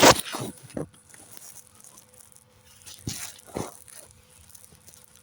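Handling knocks and scrapes of a phone being moved and propped into position: one sharp loud knock at the start, a softer one just under a second in, and two more knocks around three seconds in.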